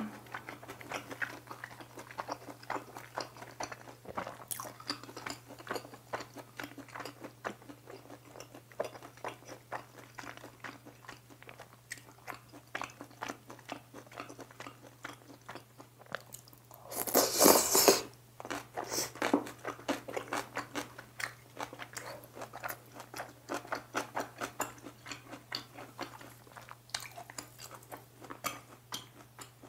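Close-miked chewing of beef sirloin, noodles and kimchi: a steady run of small wet clicks and crunches. About 17 seconds in, one loud noisy sound lasts about a second.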